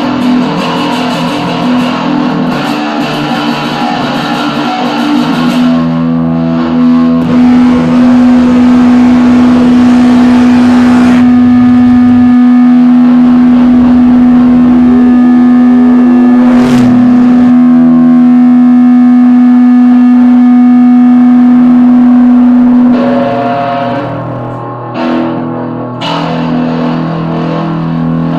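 Distorted electric guitar playing a garage-rock part. It breaks into one long held low note for most of the middle, with sliding notes over it, then returns to busier playing near the end.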